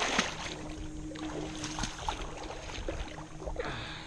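River water splashing and sloshing close by, with scattered short splashes and knocks, loudest right at the start.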